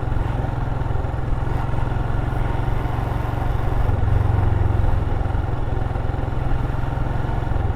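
Motorcycle engine running steadily while riding on the highway, with a low even engine note that swells a little about four seconds in.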